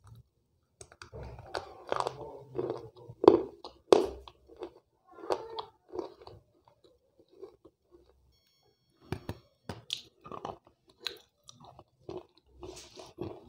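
Slate pencil being bitten off and chewed close to the microphone: a dense run of crunches for the first six seconds, a pause of about two seconds, then sharper, more separate crunches again.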